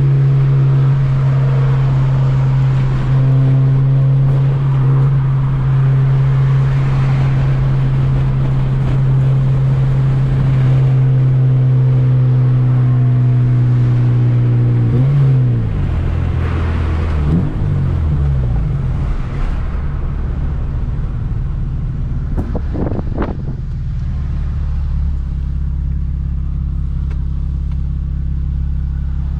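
2007 Honda Civic Si's 2.0-litre four-cylinder engine holding a steady note, then about halfway through its revs fall in a few steps and settle to a lower, steady hum. A few short clicks come near the end.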